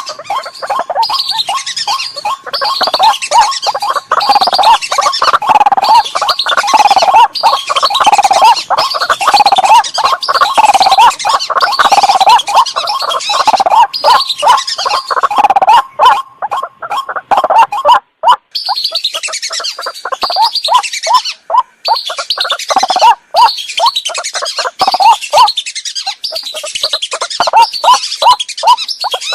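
Bird-lure recording of waterbird calls: a loud, dense run of rapidly repeated calls, with a brief break about two-thirds of the way through after which the call pattern changes.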